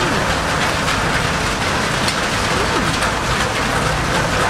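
Steady rain falling hard: an even, continuous hiss with a fine patter, with no letup.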